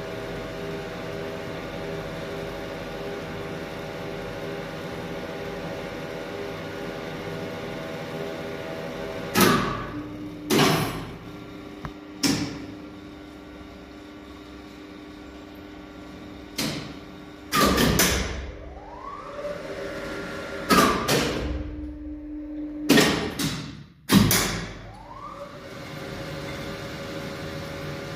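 Passenger elevator machinery humming steadily, interrupted by a series of loud clunks and knocks like its sliding doors and mechanism working. A short rising whine follows the clunks twice, and the hum returns near the end.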